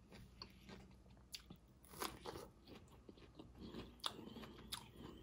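Faint close-up chewing of sautéed zucchini, yellow squash and red onion: scattered small crunches and wet mouth clicks at irregular intervals.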